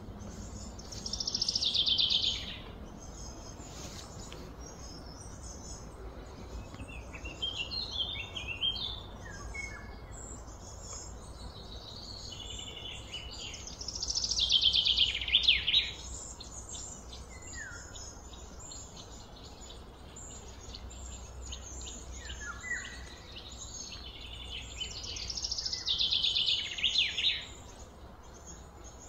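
A songbird sings the same loud, high, falling trilled phrase three times, about twelve seconds apart. Softer chirps from other birds come between the phrases, over a low steady hum.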